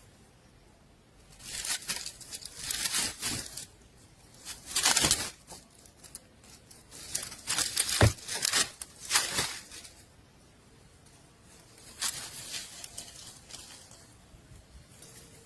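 Dry rustling and scratching in irregular bursts through most of the first ten seconds and again briefly about twelve seconds in, with one sharp knock about eight seconds in.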